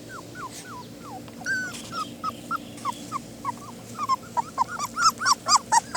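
Young puppies whimpering in a run of short, high-pitched cries that each fall in pitch, about three a second, growing louder and more crowded in the last two seconds.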